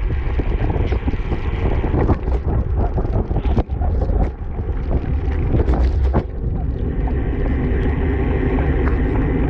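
Wind buffeting a camera microphone on a racing bicycle at speed: a loud, steady low rumble with scattered clicks and knocks.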